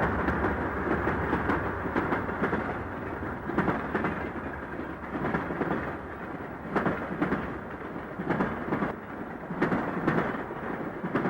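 Train rolling over a railroad crossing diamond: a steady rumble of rolling cars, broken by sharp wheel bangs that come in close pairs as each truck's axles strike the diamond's gaps.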